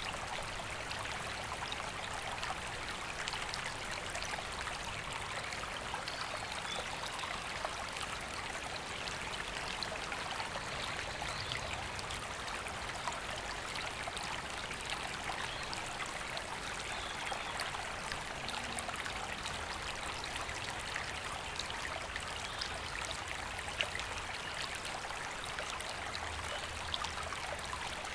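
River flowing steadily: an even, unbroken rush of water.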